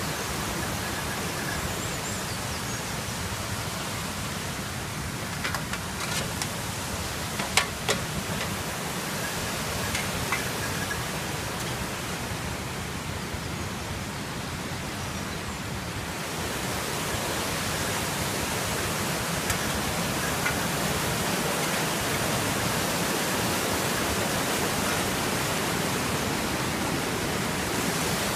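River water rushing steadily, a continuous even rush like a small rapid. A few short clicks come between about five and eight seconds in, and the rush grows a little louder about halfway through.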